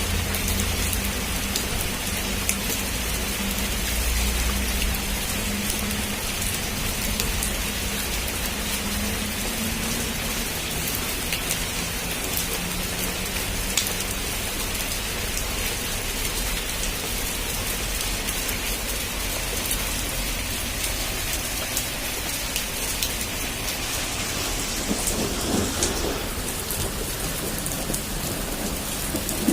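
Heavy rain falling steadily, with individual drops pattering on a surface, and a low rumble of thunder in the first few seconds.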